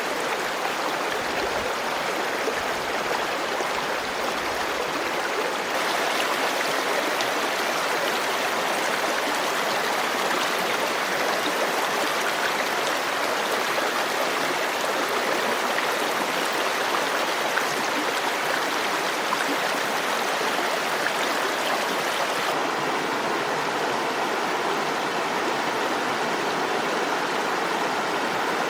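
Water flowing steadily in a stream, an even rushing noise.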